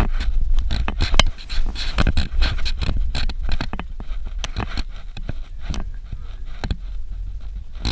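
Suzuki Jimny 4x4 driving over a rough dirt road: a steady low rumble with frequent irregular knocks and rattles.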